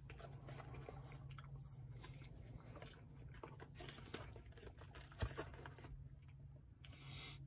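A person chewing a mouthful of chili cheese fries, with small clicks and scrapes of a plastic spoon in the paperboard container as more fries are scooped up; one sharper knock about five seconds in.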